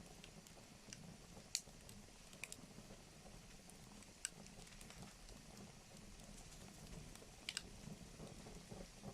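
Wood fire in a fireplace crackling faintly, a few sharp pops at irregular intervals over a low steady rush.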